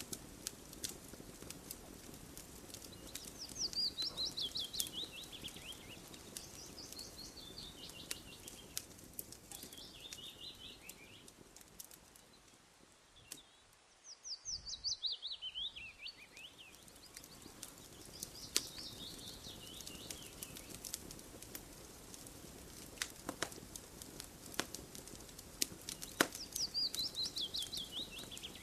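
A campfire crackling, with scattered sharp pops and snaps over a low hiss. A songbird sings repeated phrases over it, each a quick run of notes falling in pitch, about six times.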